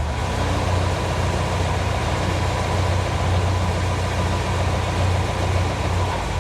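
A machine's motor running steadily with a strong low hum, starting abruptly and winding down near the end.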